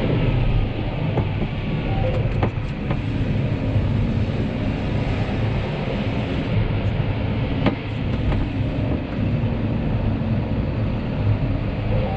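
John Deere 6250R tractor's engine running steadily under load while pulling a chisel plough, with a few sharp clicks about two and a half and eight seconds in.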